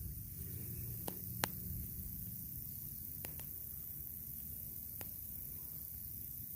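Steady low rumble and faint hiss, with a few faint, sharp ticks.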